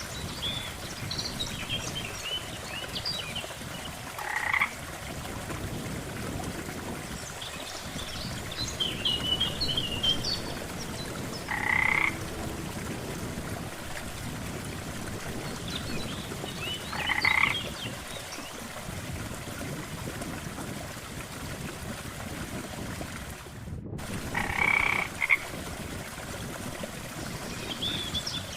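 Frogs croaking, with one loud call roughly every five seconds and fainter, higher chirps in between, over a steady low background.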